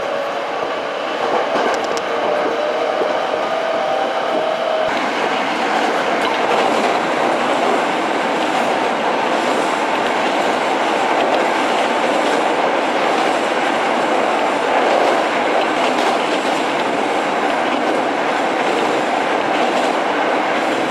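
Hankyu electric commuter train heard from inside the car, running at speed: a steady rumble of wheels on rail with faint clicks from the rail joints. A faint whining tone stops about five seconds in, and the noise grows a little louder as the train runs onto the Katsura River bridge.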